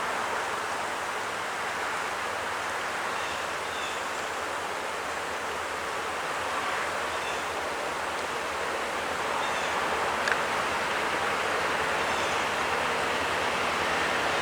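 Diesel locomotives, an EMD F10 leading and an MLW RS18u trailing, working hard as they pull a passenger train up a grade: a steady engine roar with a low hum beneath it. A single sharp click about ten seconds in.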